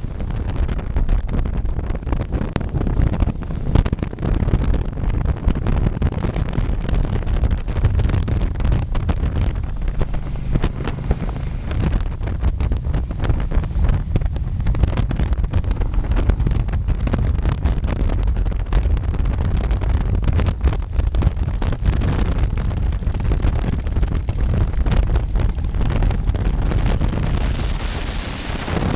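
Wind buffeting the microphone on a moving motorcycle, a steady, gusty rumble with engine and road noise underneath.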